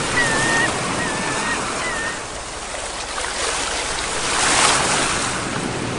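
Ocean waves breaking on the shore, with one wave surging up loudest a little after the middle. A series of short, high calls repeats and fades out over the first two seconds.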